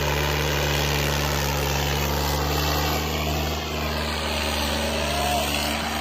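Diesel tractor engine running steadily, a continuous low engine drone with an even noise of the running machine above it.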